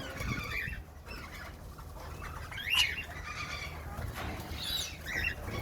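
Aviary birds calling in scattered short chirps, a few at a time, over a low steady rumble.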